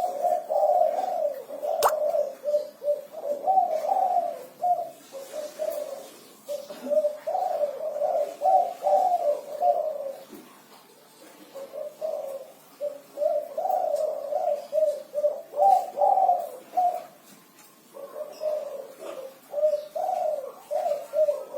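Spotted dove (tekukur) cooing in its 'kuku 6' phrase, calling steadily in four bouts of repeated coos with short pauses of a second or two between them.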